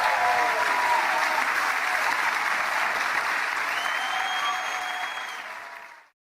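Concert crowd applauding and cheering after the song, fading out and ending about six seconds in.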